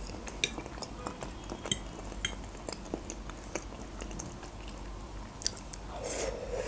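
Quiet close-miked chewing of soft baked julienne, a creamy mushroom dish under cheese, with small wet mouth clicks and the light tick and scrape of a metal fork against a glass baking dish. A short breath is heard near the end.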